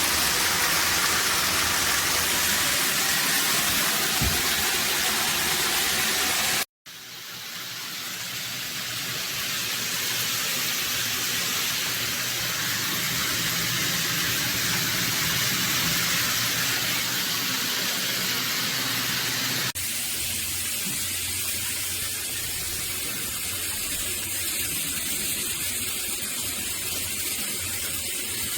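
Water spraying from a rainfall shower head: a steady rushing hiss. It stops for a moment about seven seconds in, then starts again. About twenty seconds in it changes abruptly to a thinner, higher hiss.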